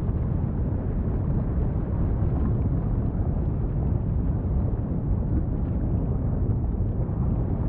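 Wind buffeting the microphone: a steady, loud, low rumbling noise that flutters rapidly without a break.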